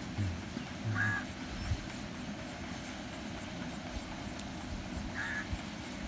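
A bird giving two short calls, about four seconds apart, over a steady background hiss, with a couple of low thumps near the start.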